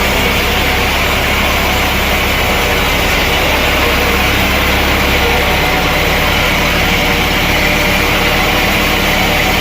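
Sawmill machinery running: a loud, steady engine-like drone that shifts slightly about six seconds in.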